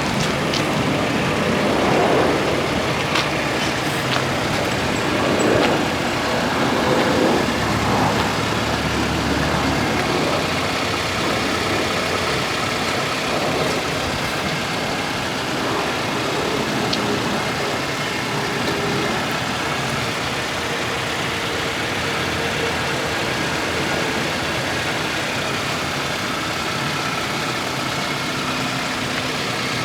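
2007 Toyota Matrix base's 1.8-litre four-cylinder engine idling steadily, with a few louder irregular swells of noise in the first several seconds.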